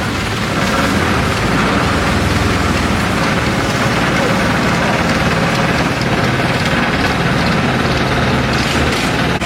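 Long-tail boat's engine running steadily at an even speed, with a constant low hum and a haze of water and wind noise over it.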